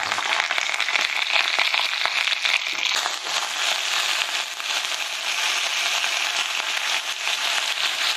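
Skin-on chicken thigh steaks sizzling in oil in a frying pan: a steady, dense crackle of fine spitting ticks.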